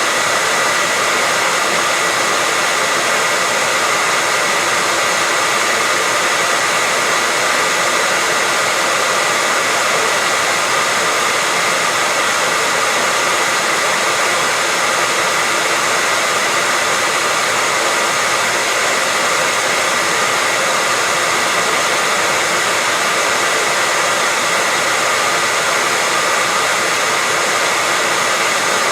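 Hair dryer running steadily: a constant, unbroken rush of air with a faint high whine from its motor.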